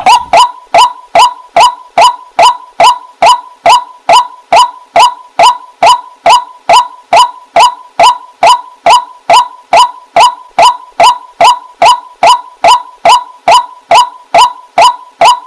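Waterhen (jal murgi) calling: one short, hooked note repeated steadily about twice a second, the monotonous repetitive call.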